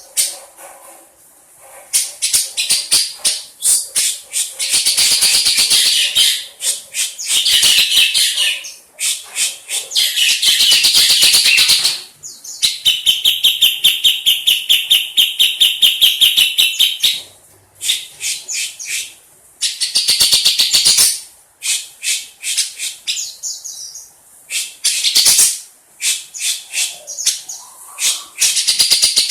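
Grey-cheeked bulbul (cucak jenggot) giving loud, harsh chattering calls in bouts, with a long fast rattling trill in the middle.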